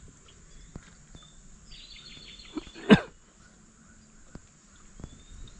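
Riverside outdoor ambience with a steady high-pitched insect drone. A bird gives a quick chattering call about two seconds in, followed by a single sharp knock, the loudest sound, and a few faint ticks.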